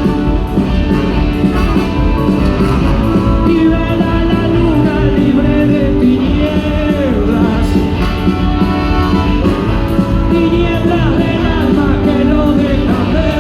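Rock band playing the song live, with singing over a steady full band sound.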